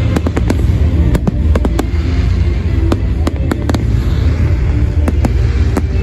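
Fireworks display going off in an irregular run of sharp bangs and crackles, several a second, over loud music with a heavy bass.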